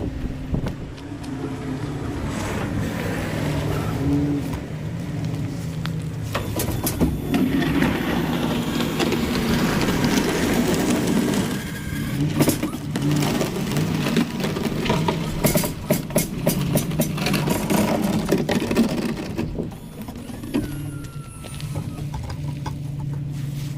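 A vehicle engine running steadily, with a long stretch of scraping and clattering noises through the middle.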